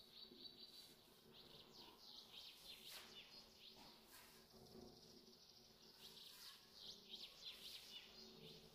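Near silence with faint bird twittering: two spells of quick, high chirps.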